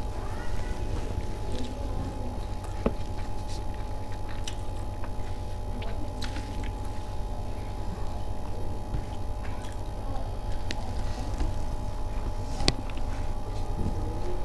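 Chewing and small clicking mouth and eating sounds of a person eating fried rice, with a sharper click near the end, over a steady low hum.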